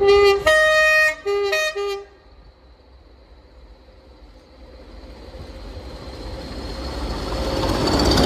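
Two-tone horn of a Class 20 diesel locomotive, sounded as a low note, a longer high note, then two short low notes. The train's rumble then builds steadily as it approaches.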